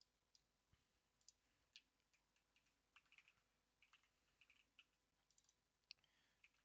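Faint, irregular clicking of a computer keyboard being typed on, in short scattered runs of keystrokes.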